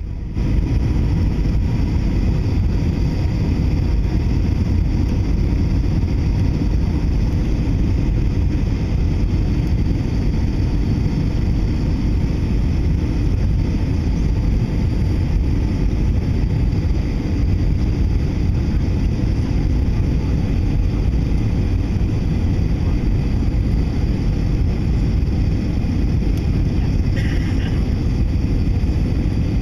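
Steady jet engine and airflow noise inside an Airbus A321 passenger cabin on approach, heavy in the low end and unchanging throughout. A brief, faint higher sound comes near the end.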